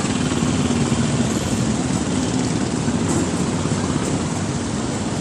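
An engine idling steadily, a constant low hum with an even noise over it.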